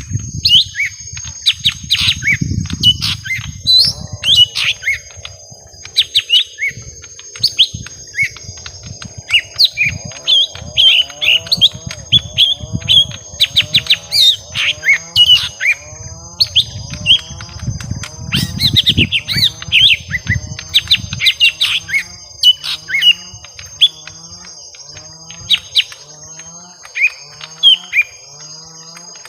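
Young lesser green leafbirds (cucak ijo mini) calling in a long, agitated fight exchange: rapid, sharp chirps and chattering notes. A lower call repeats about once a second through the second half.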